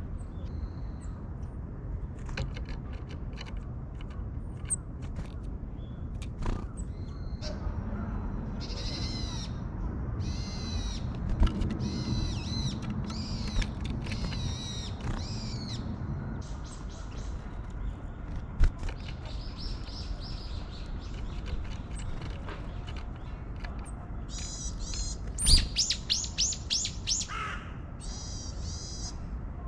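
Small tits calling: repeated series of thin, high call notes. A sharp knock comes near the end, over a steady low rumble.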